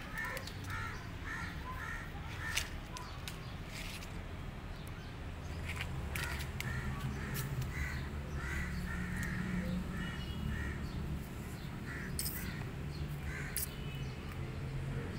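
Birds calling in quick series of short harsh calls, about three a second, in two bouts, over a steady low rumble. A few sharp clicks come near the end.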